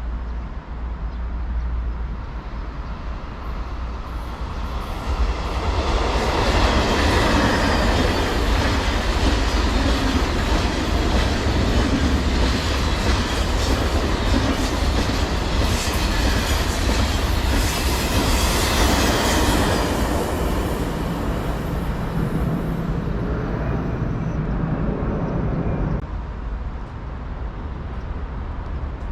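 A train passing by on the track: the rumble and clatter of its wheels on the rails builds up about five seconds in, stays loud for around fifteen seconds, then fades and drops away near the end, over a steady low rumble.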